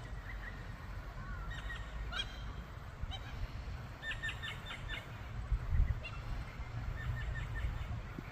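Australian magpies calling in short scattered notes, with a quick run of about six short notes about four seconds in, over a low rumble that swells briefly near the six-second mark.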